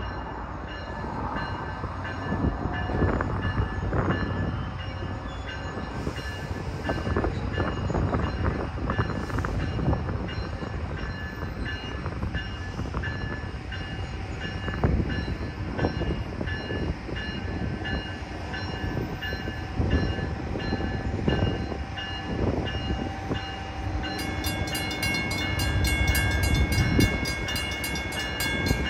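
An approaching train rumbles low and steadily, with scattered knocks from the rails. About four seconds before the end, the grade crossing's warning bell starts ringing with rapid, evenly spaced dings.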